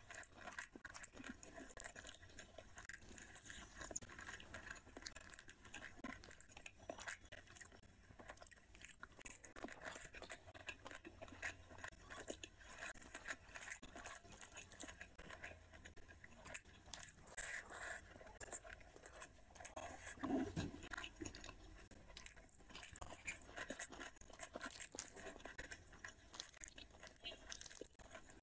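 Close-up eating sounds of rice and curry eaten by hand: chewing with a dense run of small wet clicks, and fingers mixing rice and curry on the plate. A short low hum comes about twenty seconds in.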